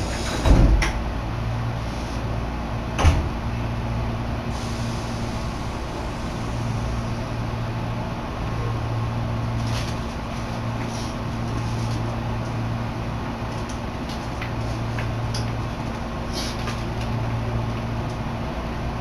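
Tobu Urban Park Line electric commuter train heard from inside the car: a steady low hum that swells and fades slowly, with a thump about half a second in and a sharper knock about three seconds in.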